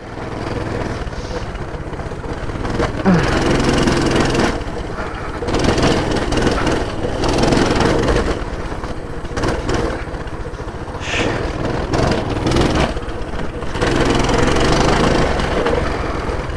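Coleman pull-start minibike's small engine running as it is ridden, the throttle opening up and easing off in several surges.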